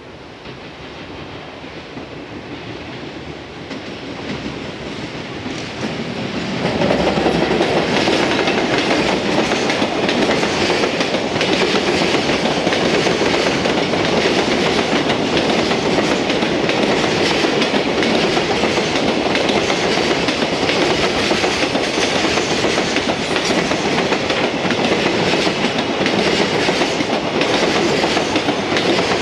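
Freight train hauled by an EF210 electric locomotive approaching, growing louder over the first six seconds or so, then running past at speed. The wagons roll by with a steady clickety-clack of wheels over the rail joints.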